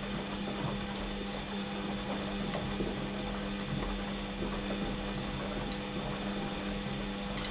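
Washing machine running partway through its wash program: a steady motor hum with irregular low rattling and a few faint clicks.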